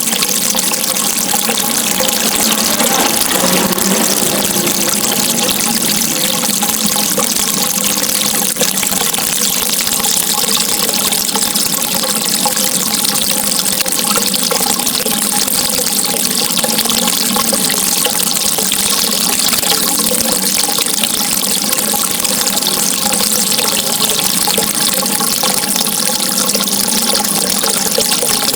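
Steady flowing water, an even, continuous rush with plenty of hiss.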